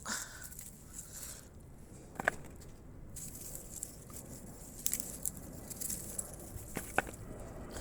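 Garden soil being dug through by hand to lift potatoes: loose earth rustling, with a few sharp knocks, the loudest about two seconds in and near the end.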